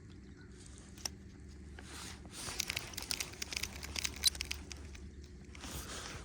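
Rain pattering, with scattered drops ticking irregularly, over a low steady rumble of wind on the microphone. The pattering thickens from about two seconds in until five and a half.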